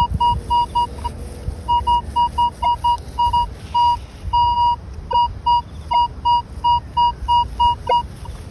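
Minelab Equinox 900 metal detector beeping a clean high tone over and over as the coil sweeps back and forth across a buried target, with a longer held tone about four seconds in. The strong, repeatable signal is one the detectorist takes for coin-like, hoping it is a florin.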